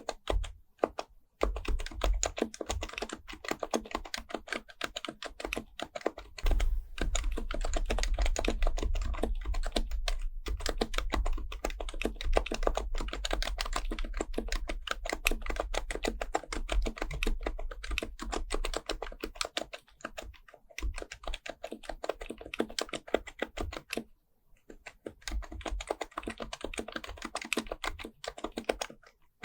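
Typing on an HHKB Professional Type-S keyboard with silenced Topre capacitive switches: a fast, dense run of key presses with brief pauses about a second in and again around two-thirds of the way through.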